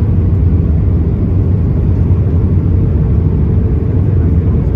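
Steady low rumble of engine and airflow noise heard inside an Airbus A320's cabin, with a faint steady hum above it.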